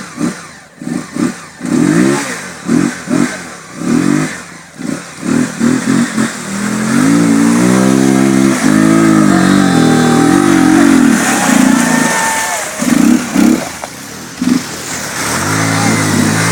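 Motorcycle engine revved in quick throttle blips, about two or three a second, then held at high revs for several seconds. It eases off and blips again, with another long rev near the end: the bike being worked hard through a rough off-road stretch.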